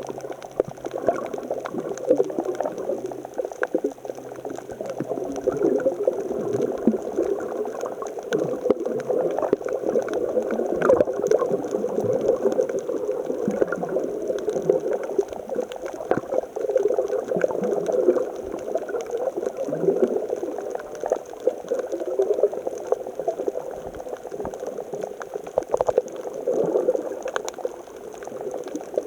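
Seawater churning and gurgling among shore rocks and concrete wave-breaker blocks, in a swell raised by an approaching typhoon. It swells and eases in irregular surges.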